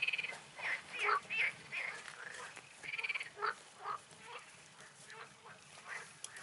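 Frogs croaking: a run of short separate calls, with a buzzing trill at the start and another about three seconds in.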